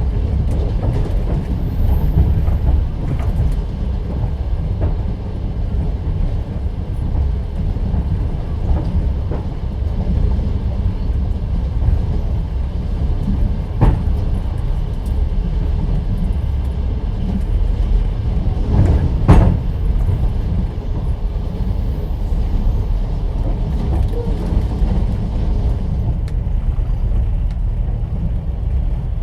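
Passenger train carriage rolling along, heard from inside an open-plan sleeper car: a steady heavy low rumble of the wheels and running gear, with a few sharp knocks, the loudest about two-thirds of the way through.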